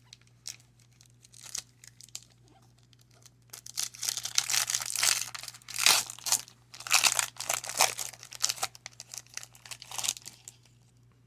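Baseball-card pack wrapper crinkling and tearing as a pack is ripped open by hand: a few light ticks at first, then a dense stretch of crackling from about a third of the way in until near the end.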